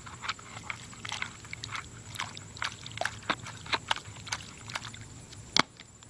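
A small shovel scraping and dropping wet dirt back into a muddy, water-filled hole: a run of irregular short scrapes and pats, a few a second, with one sharper knock near the end.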